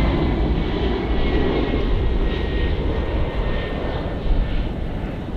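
Jet airliner passing close by: a loud engine rumble with a faint whine sliding slowly down in pitch, easing off toward the end.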